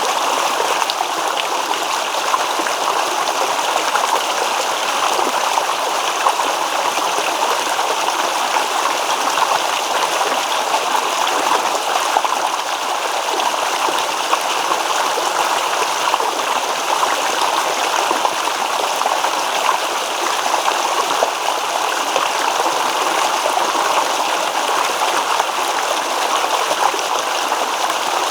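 Small stream babbling over stones: a steady, even rush of water with fine trickling and splashing detail.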